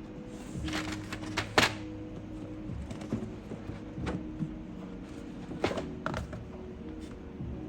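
A boxed keycap set and its packaging being handled on a desk: scattered knocks, clicks and brief scrapes, the sharpest about a second and a half in, over a steady low hum.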